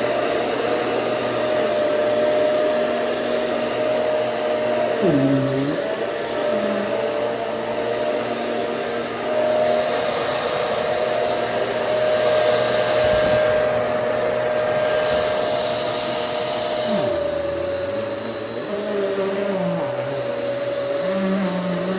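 Hoover Swivel XL Pet upright vacuum cleaner switched on and running steadily with a motor whine. Its pitch sags briefly about five seconds in and again near seventeen seconds.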